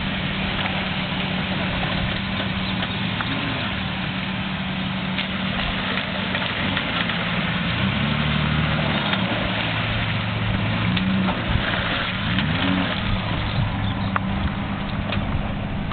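Ford Ranger pickup's engine running under way off-road, its pitch rising and falling a few times as the revs change, over a steady rushing noise.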